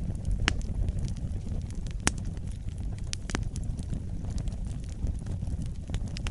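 Wood fire crackling in a fireplace: a steady low rumble of burning with scattered sharp pops and snaps, the loudest about two seconds in.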